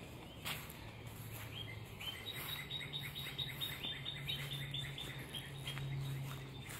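A songbird singing a fast run of repeated high chirps, about five a second, starting a second or so in and stopping shortly before the end, over a low steady hum.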